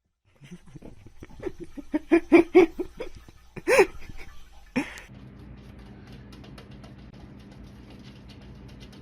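A pet animal vocalizing in a quick run of short pitched calls, then a longer falling cry and one more short call. After about five seconds these give way to a steady low hum with faint ticking.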